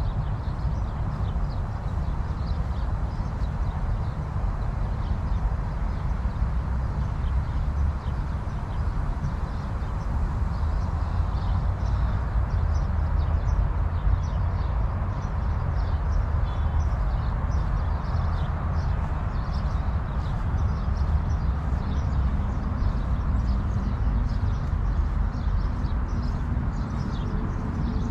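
Falling water pouring steadily into a pool in a continuous rush, with a heavy low rumble and faint scattered high ticks of splashing.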